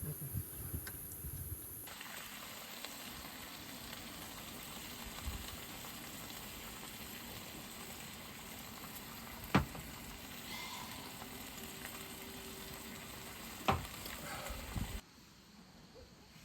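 Food sizzling as it fries in a pan, a steady hiss with two sharp knocks, one a little over halfway through and one near the end. The sizzle cuts off suddenly near the end.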